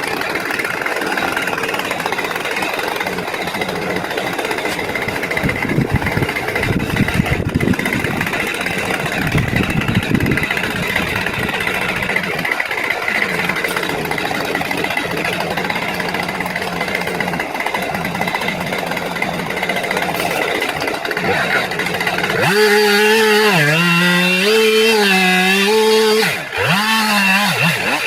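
Tractor engine running steadily. Near the end, a louder pitched drone sets in for a few seconds, wavering and dipping in pitch twice.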